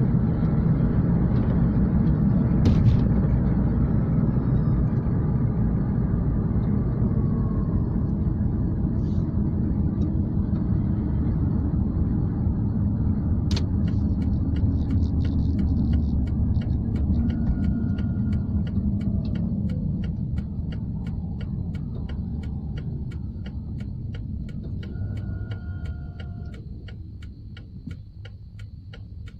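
Road and engine rumble inside a moving car's cabin, growing quieter as the car slows. About halfway through, the turn signal starts ticking steadily, set for an upcoming left turn.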